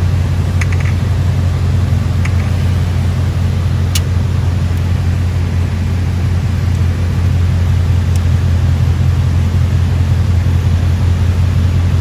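Steady low mechanical drone, with a few faint light clicks about one, two and four seconds in.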